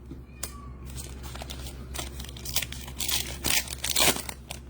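Crinkling and rustling of trading-card pack wrappers and cards being handled, in a series of short scratchy bursts that are loudest a little past the middle.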